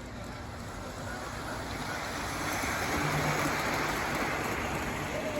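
G scale model train running along the track, a rolling rumble that grows louder about halfway through as it comes close.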